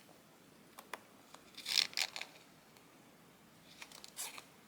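Scissors cutting paper stickers: a couple of short crisp snipping and paper-rustling bursts, about two seconds in and again near the end, with a few light clicks between.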